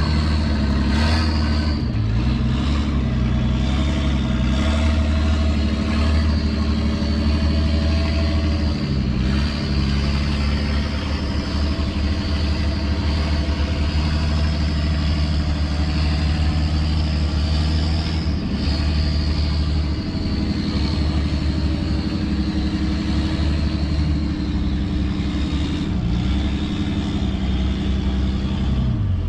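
Off-road Jeep's engine running under load as it crawls up a steep dirt and rock hill climb, its engine speed rising and falling as the driver works the throttle.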